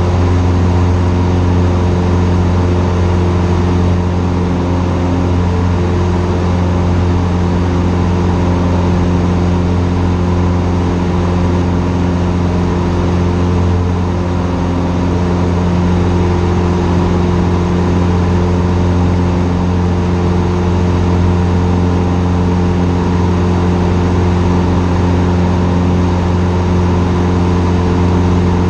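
Cessna 150's four-cylinder Continental O-200 engine and propeller droning steadily at constant power, a loud low hum with no change in pitch apart from a slight dip in loudness about halfway through.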